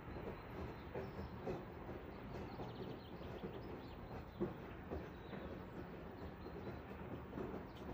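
Outdoor background ambience: a steady low rumble like distant traffic, with a faint bird chirping briefly about three seconds in.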